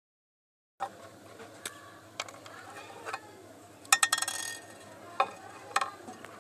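Small hard parts clicking and knocking as they are handled, with a brief clattering rattle about four seconds in.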